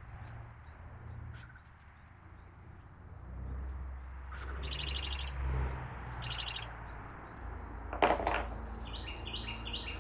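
Small songbirds chirping: two short, rapid high trills about five and six and a half seconds in, then a run of quick descending notes near the end. A sharp knock just after eight seconds is the loudest sound, with a few faint clicks and a low rumble beneath.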